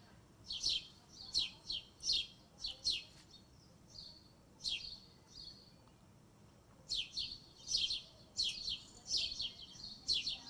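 Small birds chirping: quick runs of short, high chirps that each drop in pitch, in two busy bursts with a few fainter calls in a lull around the middle.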